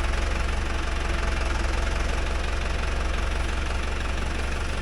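Tractor engine running steadily with a low, even drone and no change in speed.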